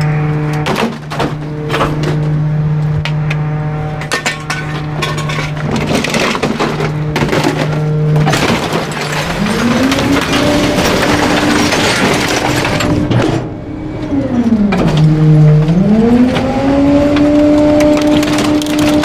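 Garbage truck engine running at a steady idle, then revving up about halfway through, dropping briefly and revving again, as it drives the hydraulic packer. Many sharp cracks and snaps of bulky items breaking as they are crushed.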